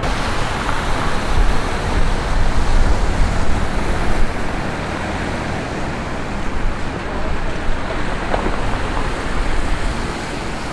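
City street traffic noise, with a vehicle passing close and loudest in the first few seconds before the general traffic settles to a steady rumble.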